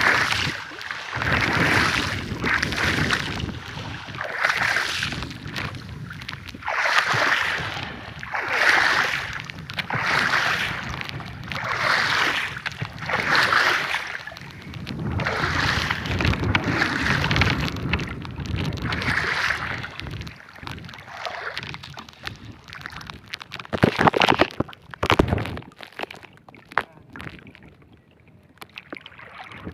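Water sloshing and splashing around a small boat in a steady rhythm, one surge every second or two, with wind. It eases after about twenty seconds, with a couple of sharp knocks a few seconds later.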